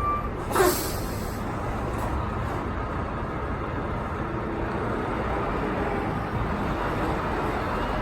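Semi truck's diesel engine running steadily at low speed while backing up. About half a second in there is a brief, loud hiss with a squeal that falls in pitch.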